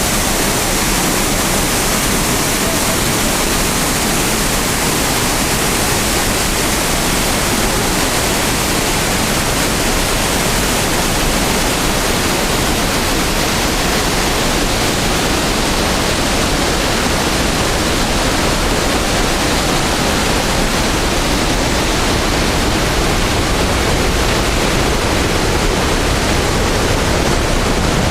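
Waterfall: water falling and splashing in a loud, steady rush. The highest hiss softens somewhat after about the middle.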